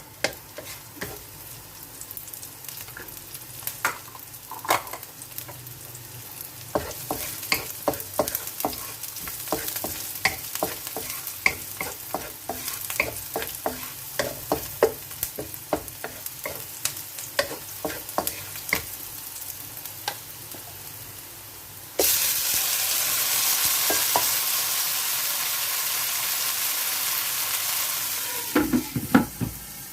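Chicken wings frying in a pan, stirred with a spatula: many quick scrapes and clacks against the pan over a light sizzle. About three-quarters of the way in, a much louder steady sizzle starts suddenly and lasts about six seconds, followed by a few more clacks near the end.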